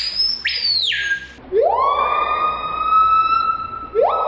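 Screaming piha giving its loud whistled calls: a high upswept whistle that drops away, then two long drawn whistles, each rising sharply and then held.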